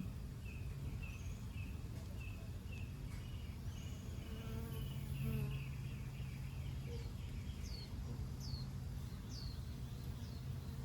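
A flying insect buzzing close by, swelling about halfway through as it passes, with small birds chirping about twice a second and a few falling high notes in the second half.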